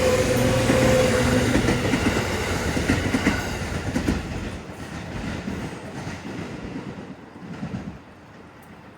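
A JR West 213 series electric train passing, its wheels clattering on the rails with a steady tone early on. It is loudest at first and fades as the train moves away.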